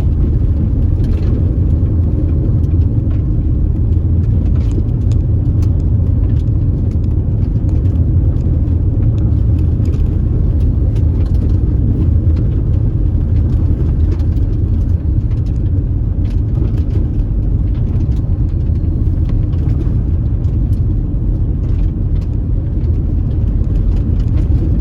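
Car driving on a dusty dirt road: a steady low rumble of tyres and engine, with faint scattered ticks throughout.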